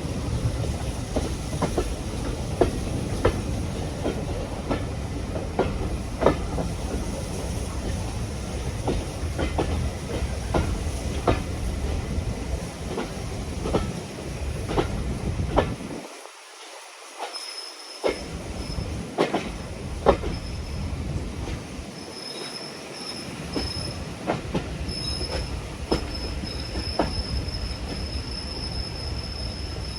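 Heritage railway carriage running on the line: a steady rumble with the wheels clicking over rail joints about once a second. In the second half a thin, high wheel squeal comes and goes.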